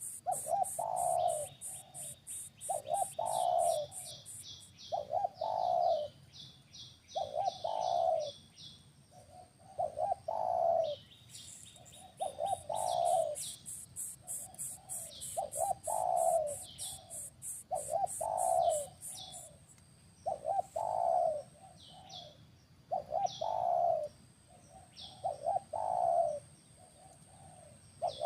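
A bird cooing: a short phrase of a few low notes, repeated about every two and a half seconds, with thin high chirps in between. A fast, even, very high ticking like an insect runs through the first few seconds and again in the middle.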